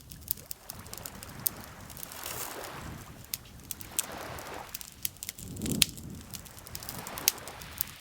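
Wood campfire crackling, with frequent sharp, irregular pops, over lake water lapping in soft swells every second or two.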